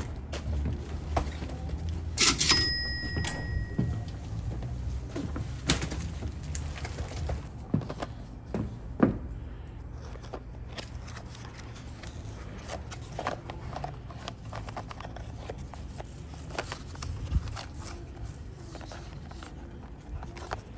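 Cardboard boxes being handled and a small box opened: scattered knocks, scuffs and cardboard rustles. About two seconds in, a short jangly chime with a few ringing tones.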